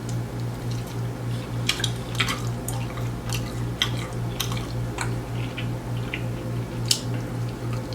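Close-miked wet chewing and lip smacks from someone eating sticky honey garlic chicken wings, in scattered sharp clicks. Under them runs a steady low hum that pulses about four times a second.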